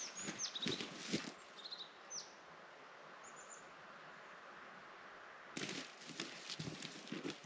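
A small bird gives several short, high chirps and down-slurred whistles in the first few seconds, over faint crunching footsteps in snow that stop, then start again about two-thirds of the way through.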